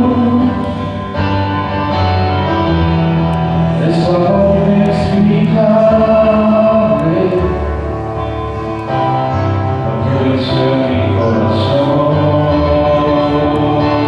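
Worship music: voices singing a slow song over instrumental accompaniment.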